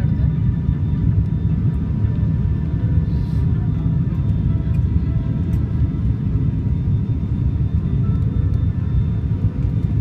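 Steady cabin noise of a turboprop airliner on its approach: a loud, even low rumble with several faint steady whining tones above it from the propellers and engines.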